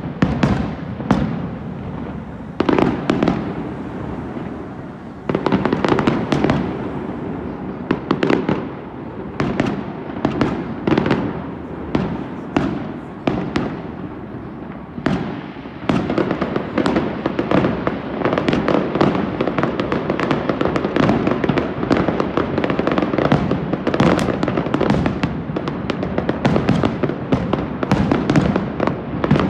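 Aerial fireworks bursting one after another with loud bangs and crackle, spaced out at first and becoming a dense, near-continuous barrage about halfway through.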